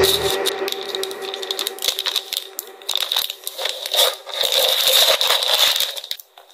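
Packing materials being handled by hand: dense crinkling, rustling and small clicks of paper and plastic wrapping. Background music stops just as the handling begins.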